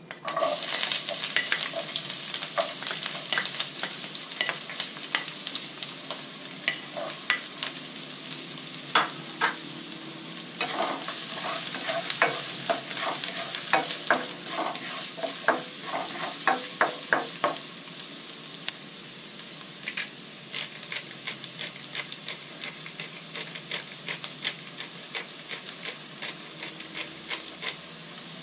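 Chopped onion and vegetables frying in hot oil in a wok, a steady sizzle that starts as they drop into the pan and eases somewhat in the second half. A spatula scrapes and taps against the pan throughout as they are stirred, with a quick run of taps around the middle.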